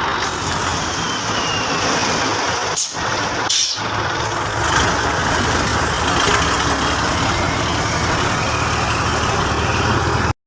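Heavy logging truck's engine running steadily, with two brief breaks about three seconds in; the sound cuts off suddenly just before the end.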